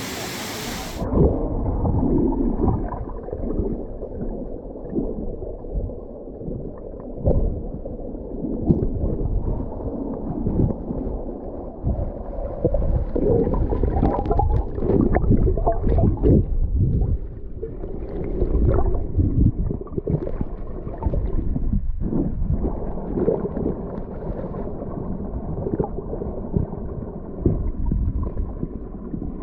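Swimming heard from underwater: muffled sloshing and gurgling of water and bubbles with irregular surges, the sharp sounds cut off from about a second in as the microphone goes under.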